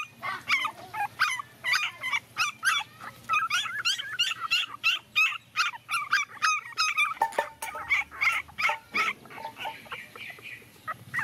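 Puppies crying in quick, high-pitched yelps, several a second, growing fainter about nine seconds in.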